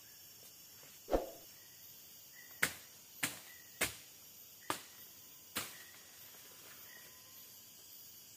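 A single dull thump about a second in, followed by five short, sharp clicks at uneven intervals, over a faint hum of forest insects.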